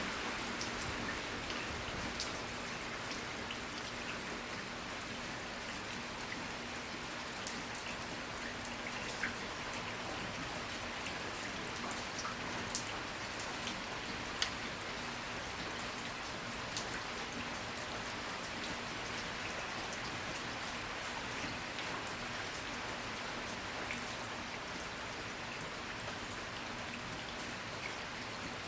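Rain falling: a steady hiss with scattered sharp drop impacts every second or two, over a faint low hum.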